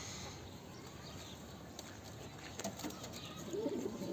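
Domestic pigeons cooing: a few low, wavering coos, most plainly near the end, with a few faint clicks about two and a half seconds in.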